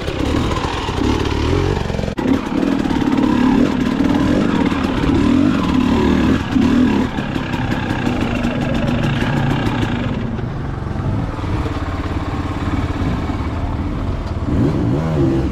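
Dirt bike engine revving hard and unevenly under load as it climbs a steep rocky hill, with a brief break in the sound about two seconds in; after about ten seconds it settles to a lower, steadier run.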